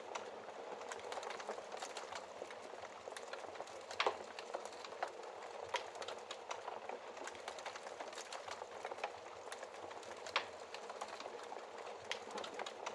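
Wood fire in a fireplace crackling, with a steady hiss and frequent small snaps. Two louder pops come at about four seconds in and near ten seconds.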